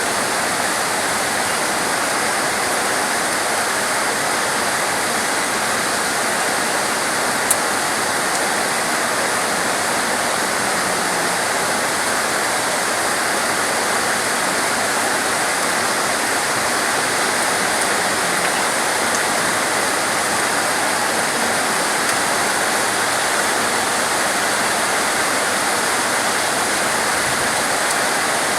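Steady heavy rain, an even unbroken hiss, with one sharp tick about seven and a half seconds in.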